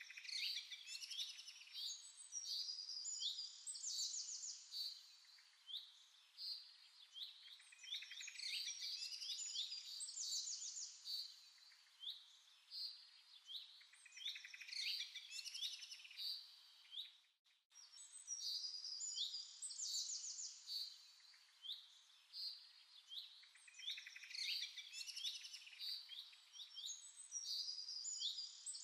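Birds chirping and singing, many short calls and trills overlapping in waves, with a brief break about seventeen seconds in.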